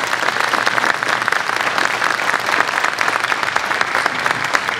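Audience applauding steadily, many hands clapping at the close of a talk.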